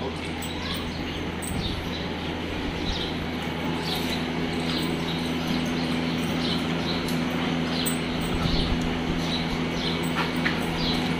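Small birds chirping over and over, short high calls repeating about once or twice a second, over a steady low hum.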